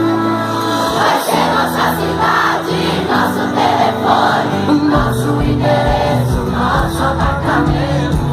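Live band music with a large crowd singing along loudly; a steady drum beat comes in about five seconds in.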